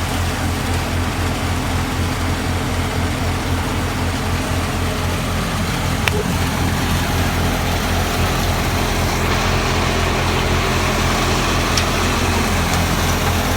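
Fiat 480 tractor's diesel engine running at a steady speed with an even low pulse, and a single click about six seconds in.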